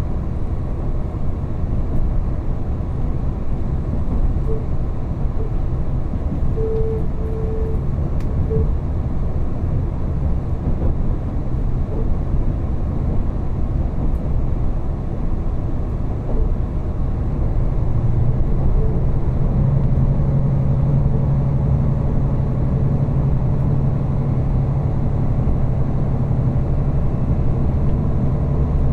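Running noise inside a diesel railcar: a steady low rumble of wheels on the track with the engine humming beneath it. About two-thirds of the way through, a steady low engine tone comes up and the noise gets a little louder.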